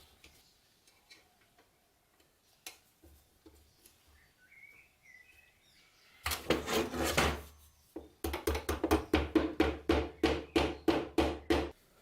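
Light scattered clicks of metal parts, then a scrape lasting about a second, followed by a run of quick, even back-and-forth scraping strokes, about five a second, as something is rubbed or worked by hand.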